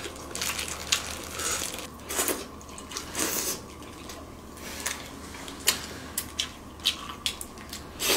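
Close-up wet chewing and lip-smacking of king crab meat, with many short sharp clicks and brief rustles as plastic-gloved hands handle the crab.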